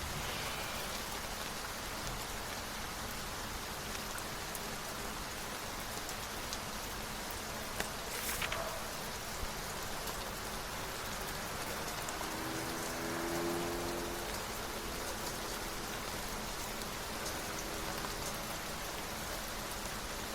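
Steady rain falling, an even hiss, with a brief sharper sound about eight seconds in and a short low hum a few seconds later.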